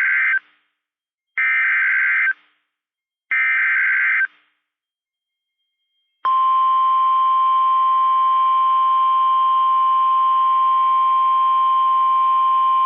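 NOAA Weather Radio Specific Area Message Encoding header: the end of one short burst of warbling digital data tones, then two more about a second apart, encoding a severe thunderstorm warning. About six seconds in, the steady 1050 Hz warning alarm tone starts and holds. It is the tone that sets off alert-ready weather radios.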